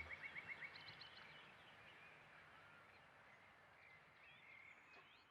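Near silence, with faint short bird calls.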